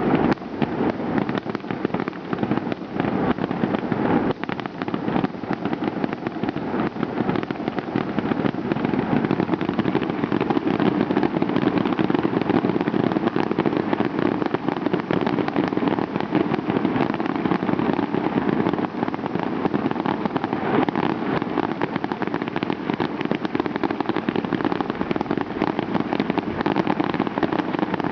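Fireworks display: a dense, continuous barrage of rapid crackling and popping bursts.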